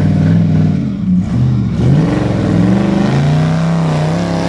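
Off-road vehicle's engine revving hard under load, its pitch rising and falling repeatedly, with a dip near the middle.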